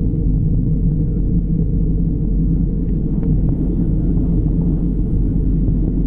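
Steady low rumble of an airliner's engines and airflow, heard inside the cabin.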